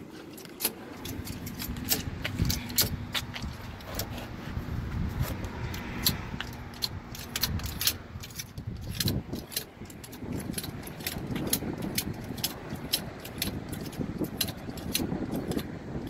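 Repeated sharp metallic clicks and clinks, irregular and several a second, from work on a truck's front axle as it is being jacked up, over a low rumble.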